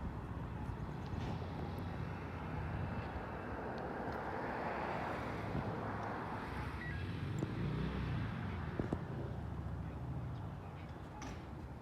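A road vehicle driving past: engine and tyre noise swells to a peak about five seconds in and then fades away, with no siren.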